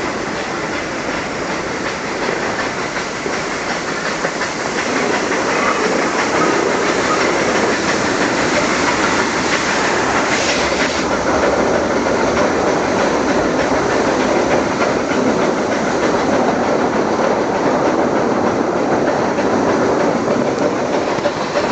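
Nilgiri Mountain Railway coach running along the metre-gauge track, its wheels rumbling on the rails, heard from an open window. The noise grows louder over the first few seconds and then holds steady.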